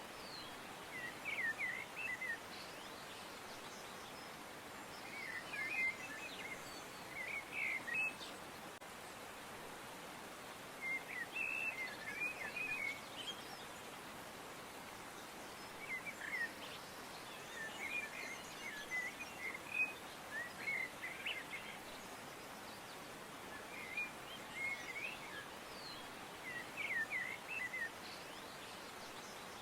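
Songbirds chirping in short clusters of quick, high chirps every few seconds over a steady background hiss.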